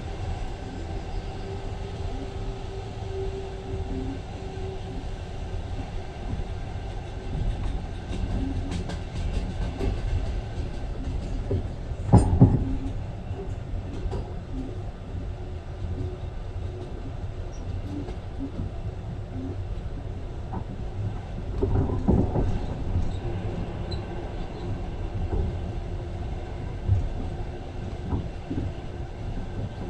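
Train running, heard from inside the carriage: a steady low rumble of wheels on rails, with louder clattering knocks about twelve seconds in and again around twenty-two seconds.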